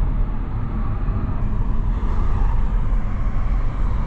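Small car driving, heard from inside the cabin: a steady low rumble of engine and road noise.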